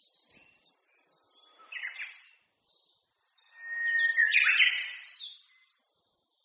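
Several songbirds singing in a spring forest, with many short high chirps. One louder song phrase in the middle begins with a long held whistle and breaks into quick notes.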